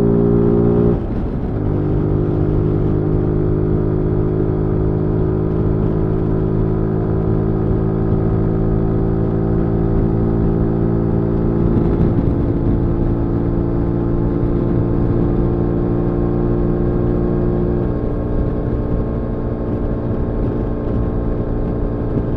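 Zontes G1 125 Scrambler's single-cylinder engine under way. It breaks off briefly about a second in, as at a gear change, then pulls steadily with its pitch creeping up, and the strong engine note drops away near the end as the throttle is eased off.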